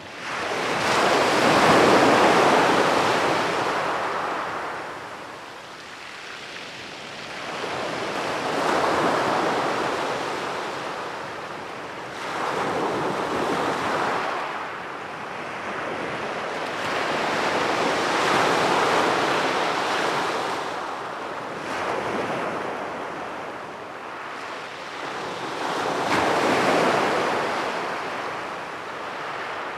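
Ocean surf breaking on a beach: waves crash and wash up, then ebb, each one swelling and fading, about six in the span.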